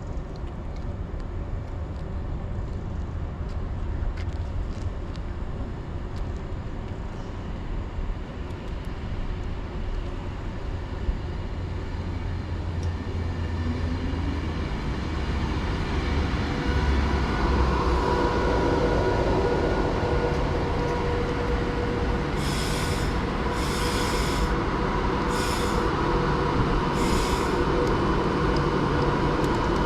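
A train at a station platform: a low rumble that grows louder from about halfway, joined by steady whining tones. Near the end come four short high hissing bursts, about a second and a half apart.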